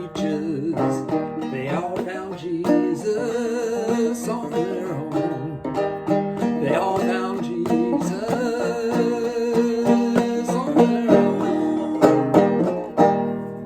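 A 1900 Fairbanks Senator banjo played clawhammer style, picking the closing bars of a song and ending on a final chord about 13 seconds in that rings out and fades.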